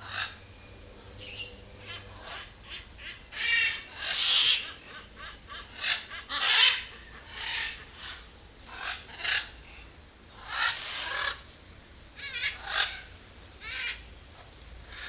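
A bird calling: about a dozen loud, raspy calls at irregular intervals, the loudest in the middle.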